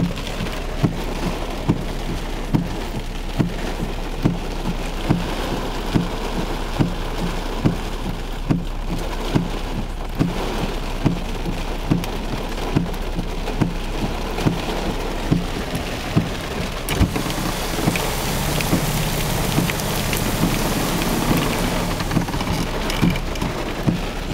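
Heavy rain pouring down on and around a car, with a regular dull thump a little more than once a second from the windshield wipers. A low engine hum swells for a few seconds near the end.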